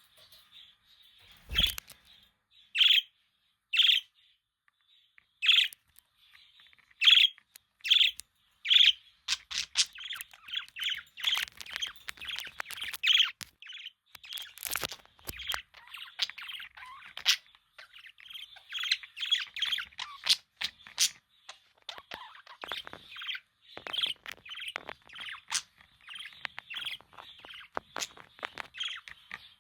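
Budgerigars chirping: loud single calls about once a second at first, then from about nine seconds in a busier run of fast chattering and warbling.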